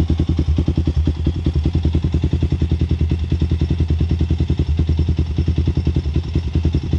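2001 Honda TRX400EX's air-cooled single-cylinder four-stroke engine idling steadily just after being restarted, an even, rapid run of exhaust pulses. No ticking stands out; the owner judges the ticking noise fixed.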